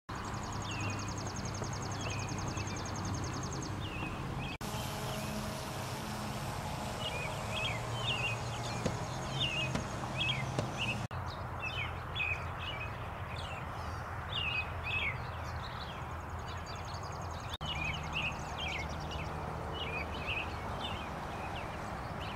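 Outdoor ambience of songbirds chirping over and over, with a rapid high trill in the first few seconds and again later, over a steady low hum. The background changes abruptly three times, at cuts between clips.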